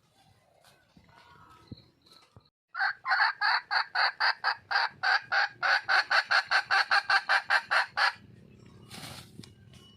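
Red junglefowl hen calling: a rapid, evenly spaced run of about two dozen sharp clucks, roughly five a second, starting about three seconds in and stopping abruptly after some five seconds.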